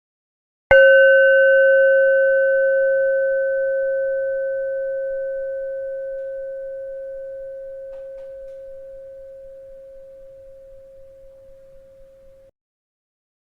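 A bell struck once about a second in: a clear single tone with fainter higher overtones that rings and slowly fades for about eleven seconds, then cuts off abruptly. It is struck again right at the end.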